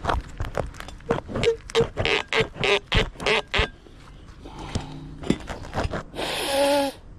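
Metal hand-tool work on the sway bar and stabilizer links: a run of about a dozen sharp, ringing metal strikes, roughly three a second, for the first few seconds. A short rasping sound with a pitched edge follows near the end.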